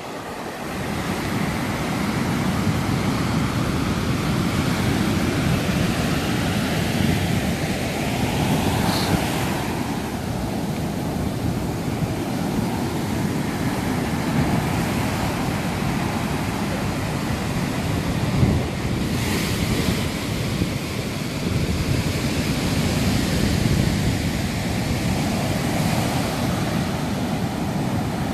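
Atlantic Ocean surf, waves washing in and out in slow swells, with wind rumbling on the microphone.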